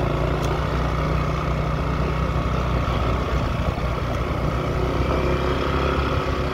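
Motorcycle engine running steadily under load as the bike rides uphill.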